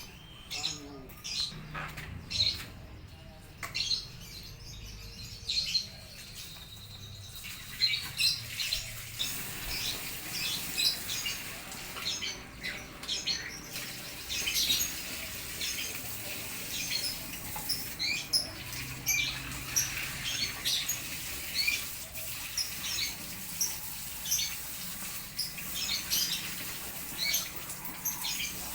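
Small songbirds chirping in many short, sharp calls that overlap and answer one another. About eight seconds in, a steady hiss sets in beneath them.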